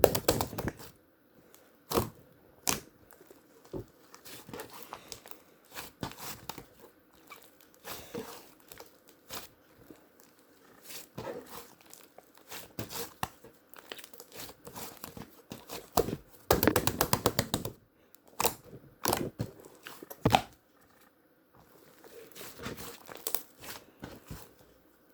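Paper and tape being handled close up: irregular crinkling, rustling and tearing. There is a dense run of rapid crinkling about two-thirds of the way through.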